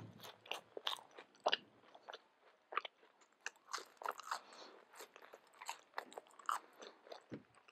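Close-miked chewing and crunching of McDonald's French fries: irregular crisp bites and wet mouth clicks.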